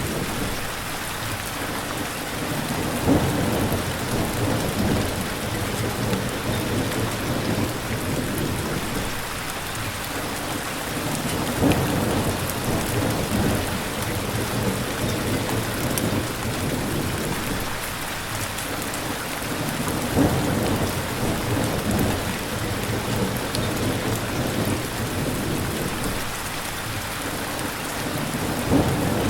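Steady heavy rain with slow, low rumbling swells of thunder. A brief louder crack stands out four times, about every eight to nine seconds.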